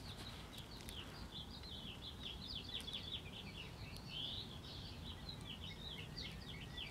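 Birds chirping in quick runs of short high notes, faint, over a low steady background hum.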